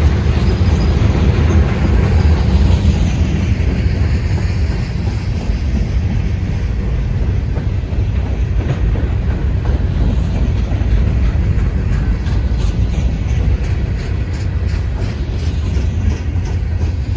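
Freight train rolling past with a steady heavy rumble, and light clicking from the wheels over the rail joints.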